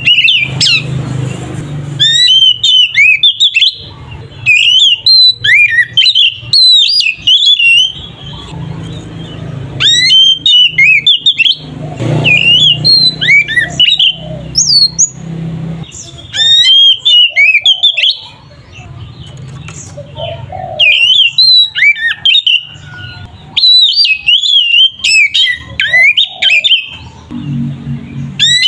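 Oriental magpie-robin singing loud, rapid whistled phrases that slide up and down, in bursts of about two seconds separated by short pauses. A low steady hum runs underneath.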